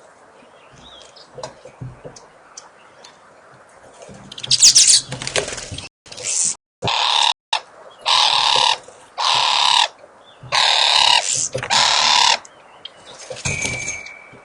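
Faint bird chirps, then from about four seconds in a loud run of repeated bird calls, each under a second long and coming a little over once a second, twice cut by brief dropouts of the audio.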